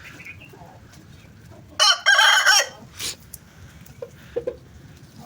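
Aseel rooster crowing once, a short loud crow about two seconds in, followed by a few brief, softer calls.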